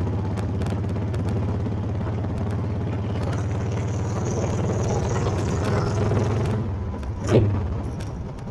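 Honda Fury's 1300cc V-twin running steadily under way, easing off about six and a half seconds in. A single short, loud sound follows shortly after.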